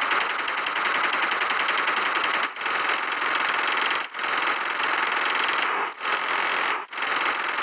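Steady heavy rain: a dense hiss of countless rapid drop impacts, cut by a few brief dropouts.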